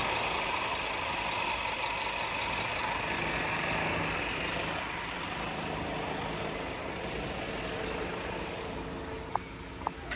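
Scania P230 truck's diesel engine running steadily at idle, with two short clicks near the end.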